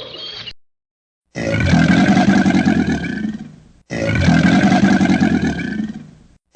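An animal's roar, the same deep pulsing roar of about two and a half seconds played twice back to back, each fading out, with a third starting at the very end. Before it, another animal's call cuts off about half a second in.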